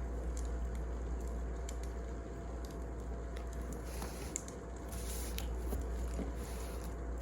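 Wood fire crackling, with scattered small pops and snaps over a steady low rumble.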